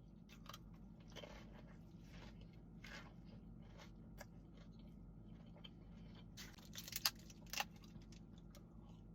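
A person chewing food close to the microphone, quiet wet chewing with scattered small crunches, and a few louder, sharper crunchy bites about two-thirds of the way through.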